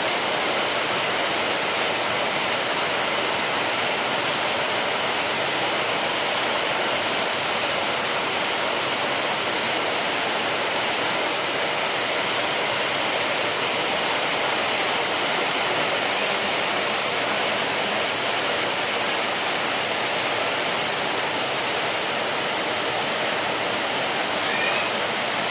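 Heavy rain pouring down steadily, an even rushing hiss that holds the same level throughout.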